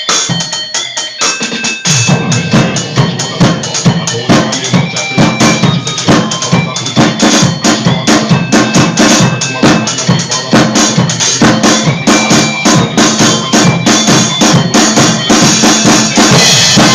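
Drum kit played hard in time with a recorded song, dense strikes throughout; the low end gets heavier about two seconds in.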